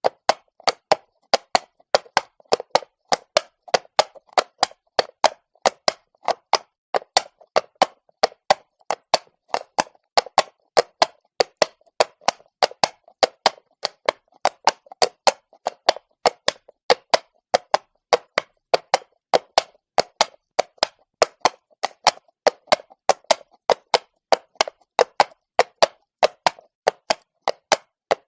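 Horse's shod hooves clopping on cobblestones at a walk: a steady, even run of sharp knocks, about two to three a second.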